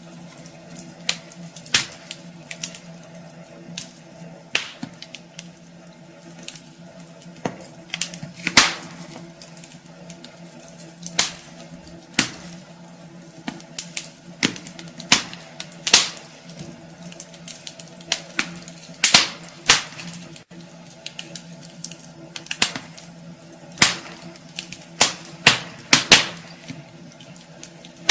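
Wood fire crackling in a fireplace: irregular sharp pops and snaps, sometimes in quick clusters, over a soft steady hiss and a faint low hum.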